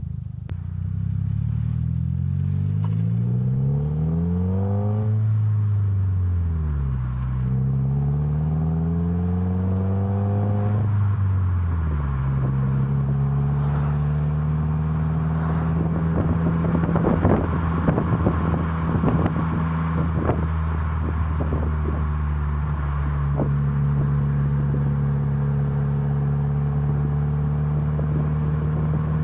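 Subaru WRX turbocharged flat-four running through an ISR MBSE catback exhaust with an added resonator. The revs climb and drop twice, then hold steady in a constant drone, with a few clicks and rattles a little past the middle.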